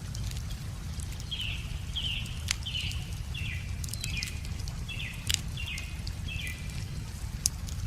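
Wood fire crackling with scattered sharp pops over a steady low rush of running water. A bird repeats a short chirping call about nine times, from about one and a half seconds in until near the end.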